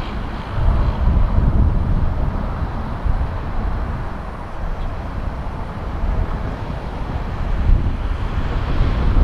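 Deep, uneven rumble of a jet airliner passing on the runway, its higher engine hiss fading early on while the low roar lingers.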